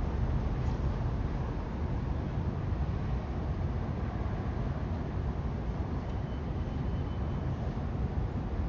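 Steady low outdoor rumble of city ambience, even throughout, with a faint thin high whine for a second or so near the end.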